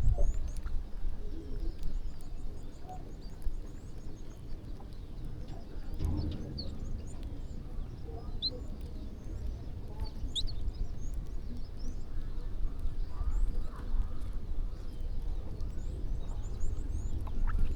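A flock of small birds chirping and calling as they feed, in scattered short high chirps and quick chirp series, over a steady low rumble.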